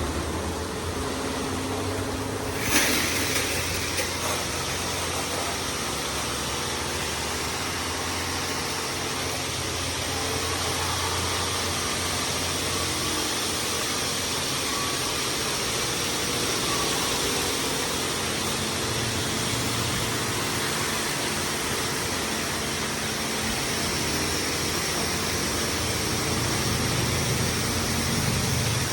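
LaserWash 360+ touchless automatic car wash running, heard from inside the car: a steady hiss of spray and machinery hum, with one sharp knock about three seconds in.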